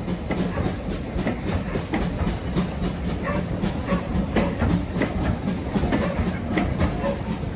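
Railway train running along the line: a steady rumble with irregular clicking and knocking of the wheels over the track.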